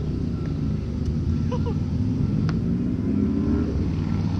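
Steady low engine rumble, with a couple of faint short chirps about a second and a half in and a brief click a little later.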